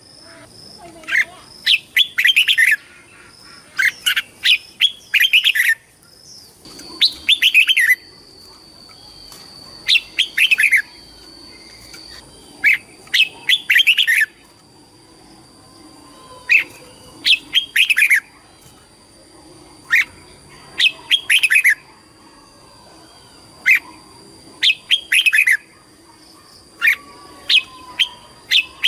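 Red-whiskered bulbul singing: short, bright phrases of a few quick notes, repeated every second or two. A faint steady high tone runs underneath.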